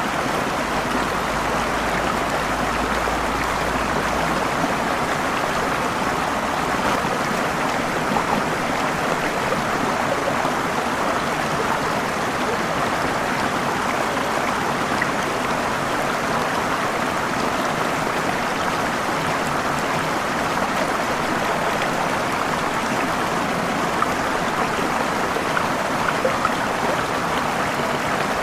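Waterfall: the steady, unbroken rush of falling water, with a low rumble underneath for the first few seconds.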